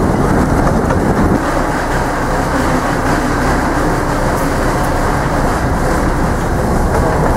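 600 mm narrow-gauge forest railway train running at speed behind a diesel locomotive: a steady loud rumble of the locomotive and the wheels on the track, easing slightly about a second and a half in.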